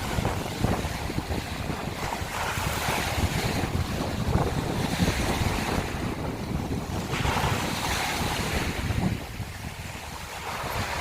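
Sea waves breaking and washing over a shore of broken scallop shells, swelling in surges a few seconds apart, with wind rumbling on the microphone.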